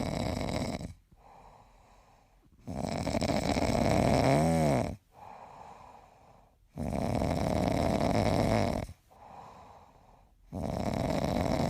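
A cat snoring: loud, rasping snores about every four seconds, each lasting around two seconds, with quieter in-breaths between them.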